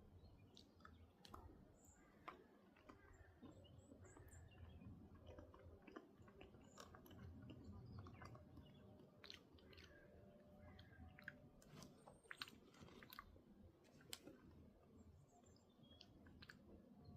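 Near silence with faint, irregular clicks and crackles throughout, and a few faint high chirps.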